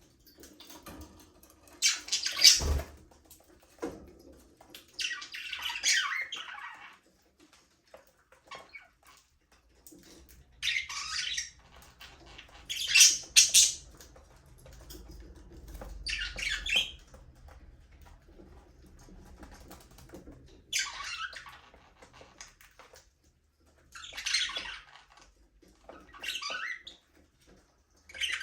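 Budgerigars chirping and squawking in short bursts every couple of seconds, with quiet gaps between. A single sharp knock comes about two and a half seconds in.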